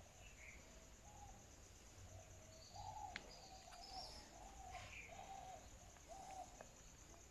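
Faint birdsong: a bird calling in a run of short, low notes, with a few higher chirps above. A steady, high, pulsing hum runs behind it, and there is a single faint click about three seconds in.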